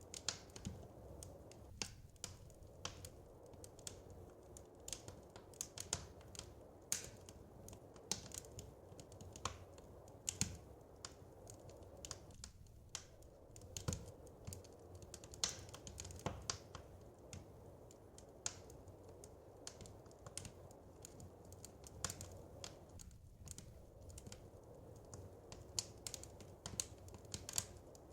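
Wood fire crackling: irregular sharp snaps and pops, some louder than others, over a low steady rush.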